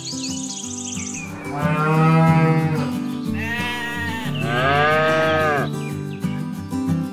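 A cow mooing: long drawn-out moos, one starting about a second and a half in and more from about three and a half to nearly six seconds in, over light background music.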